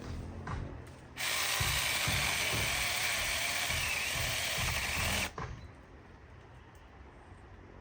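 A power tool runs with a loud rasping noise, starting abruptly about a second in and cutting off abruptly about four seconds later.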